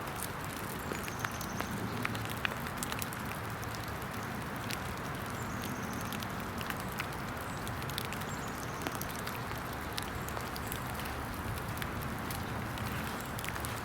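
Steady rain with a continuous hiss and many scattered, irregular sharp ticks of drops landing close by.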